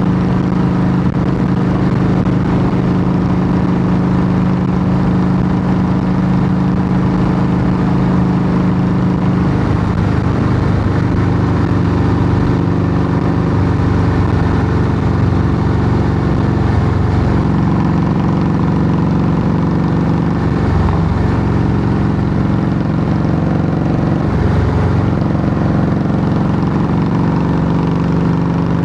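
Harley-Davidson Softail Heritage Classic V-twin running loud through Samson true dual fishtail exhaust pipes. The note holds steady at first, then changes pitch partway through, with three brief dips in the second half.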